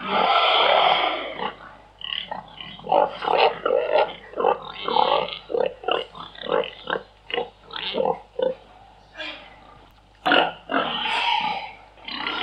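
Pigs grunting and squealing: a loud squeal at the start, then a run of short grunts about two a second, and another loud squeal a little after ten seconds in.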